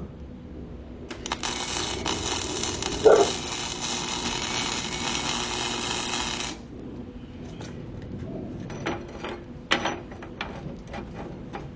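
Electric welder crackling steadily for about five seconds while tack-welding rebar, then a series of light metal clicks and taps. A dog barks once partway through the weld.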